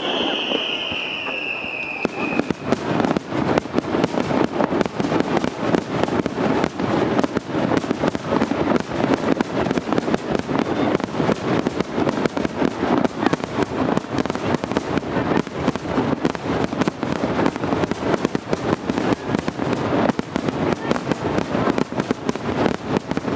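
Fireworks barrage (starmine): a dense, continuous rapid-fire string of bangs and crackles from many shells bursting together. In the first two seconds a falling whistle sounds over it.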